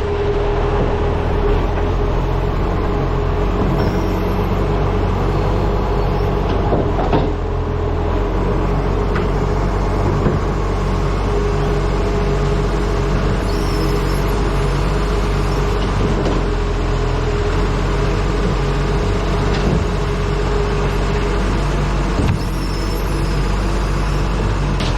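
ACCO truck's diesel engine running steadily under way, with wind noise buffeting the front-mounted camera's microphone.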